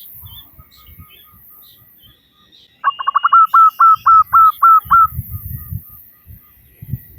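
Female zebra dove (perkutut) calling, a loud run of short repeated notes. It starts as a quick stutter about three seconds in, settles to about four notes a second and stops after a little over two seconds. It is the female's call that draws males to answer.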